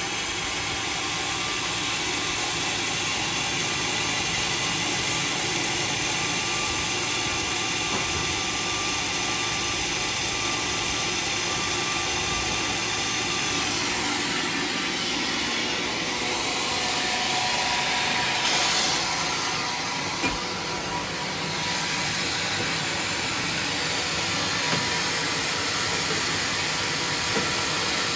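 Homemade sawmill running: a steady mechanical noise with a hiss, with a few short knocks in the second half.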